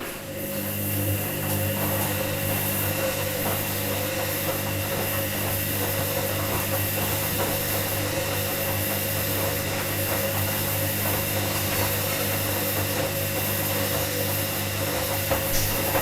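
Washing machine motor running with a steady hum and whine, coming up to speed over the first second.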